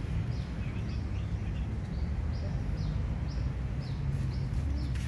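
A small bird chirping over and over in short falling notes, two or three a second, over a steady low rumble of outdoor background noise.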